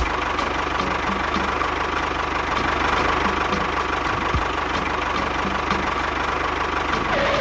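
A small machine motor running steadily, with a faint regular ticking about three times a second.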